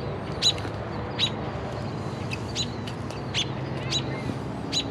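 American robin giving a string of short, sharp, high calls, about eight in under five seconds, with uneven gaps between them.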